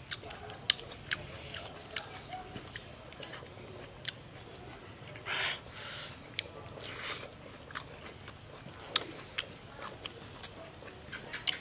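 Wet chewing and lip smacking of red grapefruit flesh being eaten close to the microphone: many short sharp clicks, with a few longer, noisier bursts around the middle.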